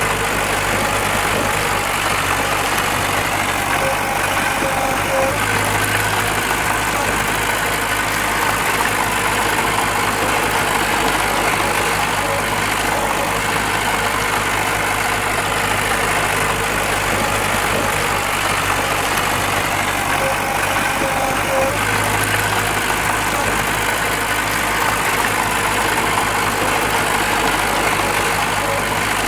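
Diesel engine of heavy earthmoving machinery running steadily, a small bulldozer or a dump truck working rock fill.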